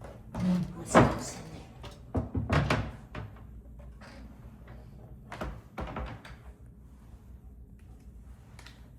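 Several sudden knocks and thuds over a low steady hum: the loudest about a second in, a quick cluster around two to three seconds in, and two more near six seconds.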